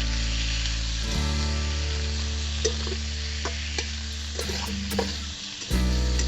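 Minced chicken sizzling as it fries in hot mustard oil in a kadai, with a few light clicks of stirring. Background music with sustained low notes plays over it.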